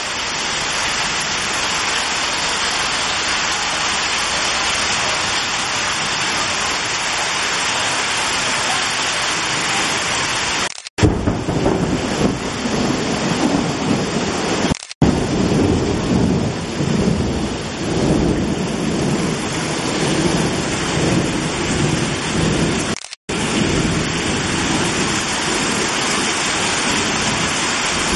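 Heavy rain pouring down onto flooded, waterlogged ground: a steady, even hiss that breaks off for a moment three times. Through the middle stretch a deeper, uneven rumble joins the rain.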